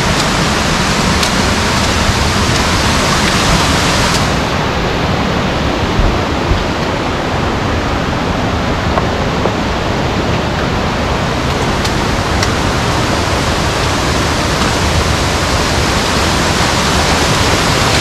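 Steady, loud rush of water from a mountain stream or cascading waterfall, with a few faint clicks.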